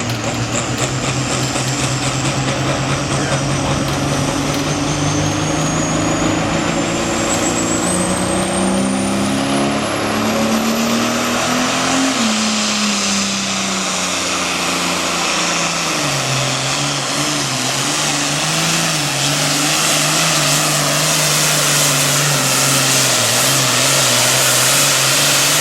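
Turbocharged diesel Super Farm pulling tractor running hard under full load, with a high turbo whine that climbs steadily in pitch over the first half. The engine note rises to a peak about halfway through, then drops and holds steady.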